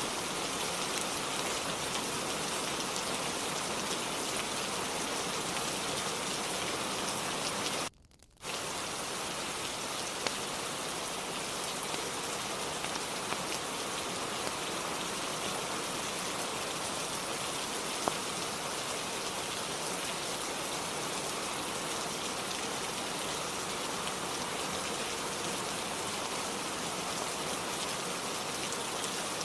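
Steady rainfall, an even hiss of falling drops. The sound cuts out almost completely for about half a second around eight seconds in, then resumes, with a few faint ticks standing out later.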